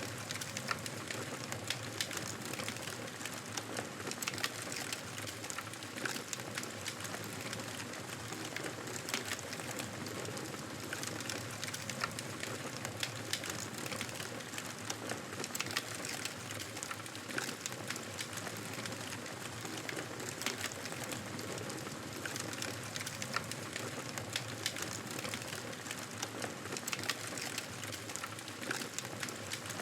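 Wood fire crackling in a fireplace: a steady hiss with many small, irregular pops.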